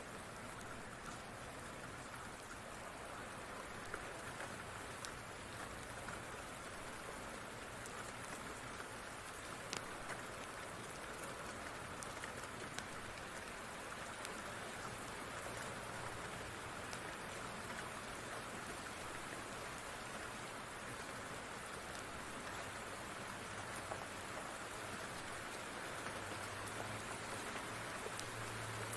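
Steady rain falling, an even hiss with scattered faint sharp clicks. A low rumble swells in the last few seconds.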